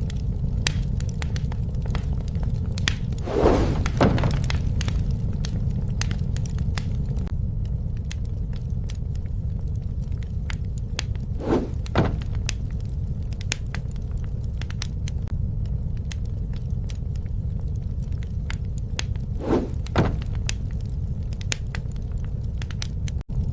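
Campfire burning, with a steady low rumble of flame under frequent sharp crackles and snaps of burning wood. Louder double pops come about four, twelve and twenty seconds in.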